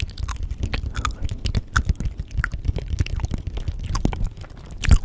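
Layered close-microphone ASMR sounds: a dense, irregular run of clicks and crackles over a low rumble, with one sharper click near the end.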